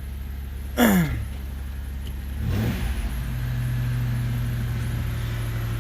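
Chevy Venture minivan's 3.4-litre V6 running after a no-crank start, got going by tapping the sticking starter motor with a hammer. The engine idles steadily; about two and a half seconds in the revs pick up a little and hold at a steady, slightly louder idle.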